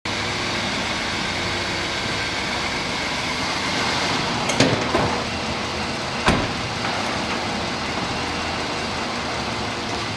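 A steady mechanical running noise, even and unbroken, with two sharp clicks or knocks about four and a half and six seconds in.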